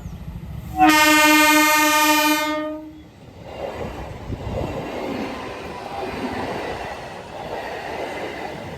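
Indian Railways train horn blown once, a steady tone held for about two seconds, followed by the rumble and clatter of the train running past.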